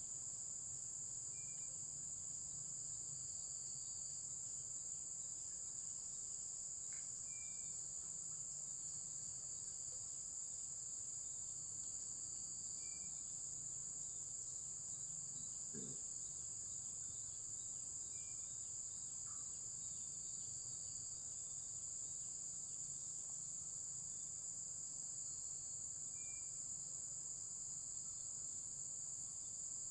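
Steady high-pitched chorus of crickets and other insects, with a faint short chirp repeating every five seconds or so.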